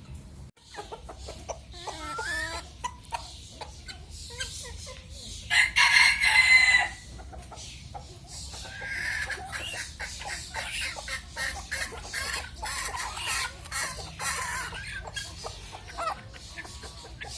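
Chickens clucking, with a rooster crowing loudly once about six seconds in.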